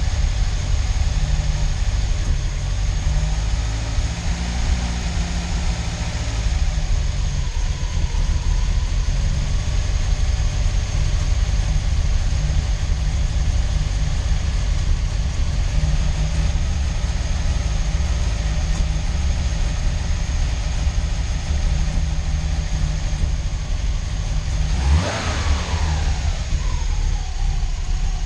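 A freshly installed 2005 Subaru Legacy GT turbocharged flat-four engine idling steadily on its first start-up. About 25 seconds in it is revved briefly, rising and falling back to idle.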